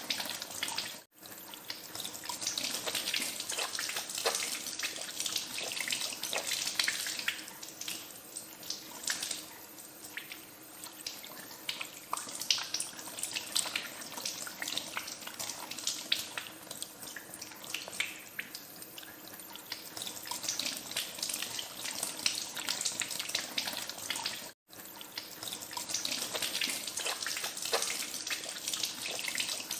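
Tap water running into a sink while hands are washed under the stream, with uneven splashing. The sound drops out for an instant twice, about a second in and again near the end.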